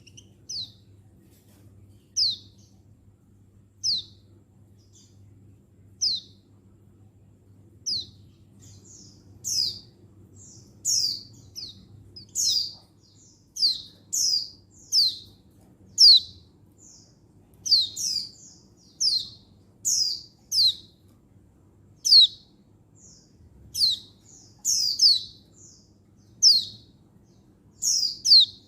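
Female white-eye (pleci) calling: short, high, falling chirps, one about every two seconds at first, then coming more often and louder from about ten seconds in.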